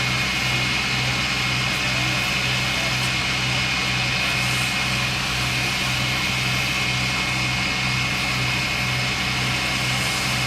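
A fire truck's engine running steadily, likely driving its water pump for the hoses, with a low throb pulsing about three times a second and a steady high whine over it.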